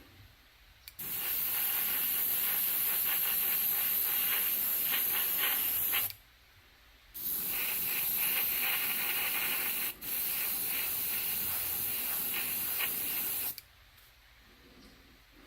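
Spray painting: long steady sprays of paint, one of about five seconds and then another of about six seconds that breaks off for a moment near the middle, with short pauses between.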